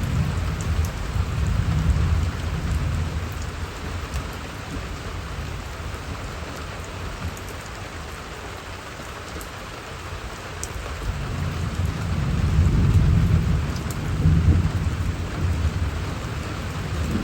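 Steady rainfall hissing down on surfaces, with a low rumble swelling twice: briefly at the start and again about two-thirds of the way through.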